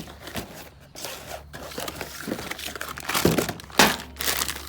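Plastic packaging of a rack-and-pinion seal kit crinkling and rustling as it is handled, with the loudest crackles about three to four seconds in.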